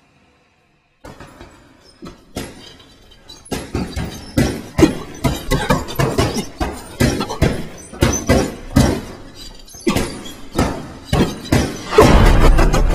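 A quick, uneven series of sharp hits and knocks. They start sparse and come several a second from about four seconds in, building to a loud, sustained crash near the end.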